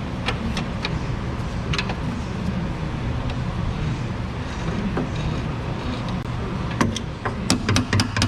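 Small metallic clicks of pliers turning a bolt into a suspension mount, over a steady low hum. The clicks come a few at a time, then in a quicker, louder run near the end.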